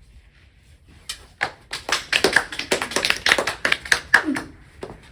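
A few people clapping briefly: a quick, irregular run of hand claps that starts about a second in and dies away near the end, in a small room.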